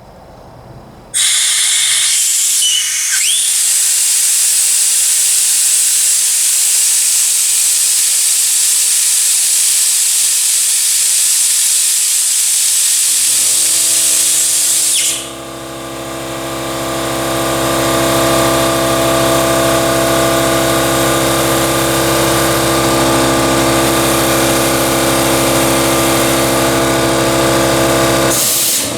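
Compressed air hissing loudly out of a DeWalt 60-gallon air compressor's tank through an opened valve as the tank is drained. About thirteen seconds in, the compressor's electric motor and pump kick on at the low-pressure cut-in (about 120 psi) with a steady hum. The hiss stops a second or two later, and the pump keeps running to recharge the tank.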